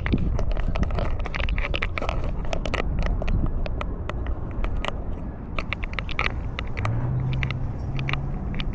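Rumbling, rustling and scattered clicks and scrapes from a camera worn on a walking cat's collar. A low steady hum joins about seven seconds in.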